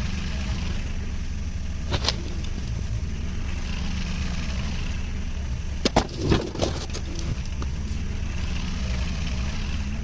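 Engine running steadily at a low rumble, with a sharp knock about two seconds in and a short cluster of knocks and clanks around six seconds in.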